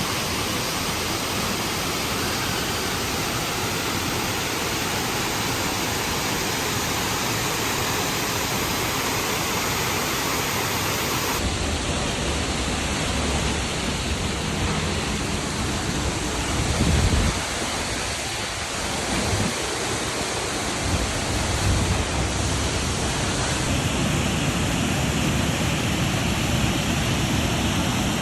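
Waterfall: a steady, dense rush of falling water with no pitch to it. Its tone changes abruptly about 11 seconds in and again near 24 seconds, and there is a brief low rumble around 17 seconds.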